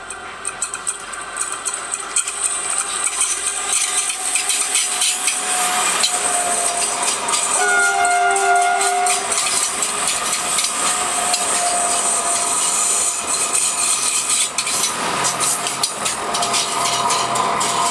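A heritage train running past on the rails with a constant rattle and clatter of wheels. Its horn sounds with a chord of steady notes, most strongly for about a second around eight seconds in, with weaker horn notes elsewhere.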